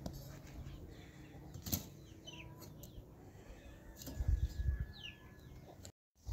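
Quiet outdoor ambience with a few short, falling bird chirps, a handful of light clicks and knocks from sticks being handled at a fire pit, and some low rumbles of wind on the microphone.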